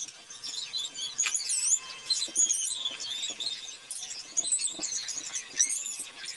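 Many quick, high chirps and squeaks overlapping busily, like small birds chirping, with a few short clicks among them.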